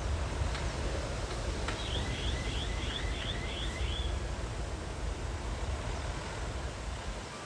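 A bird calls a quick series of about seven short chirps, starting about two seconds in. Under it is a steady low rumble.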